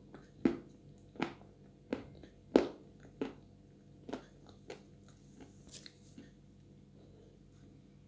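Close-up chewing of soft Chuy clay tile and paste: wet mouth clicks and smacks about every two-thirds of a second, dying away after about five seconds.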